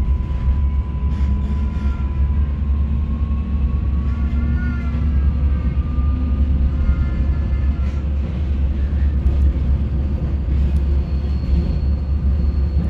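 Old regional passenger train running along the track, heard from inside the carriage: a steady low rumble, with faint whining tones that slowly rise in pitch over the first few seconds.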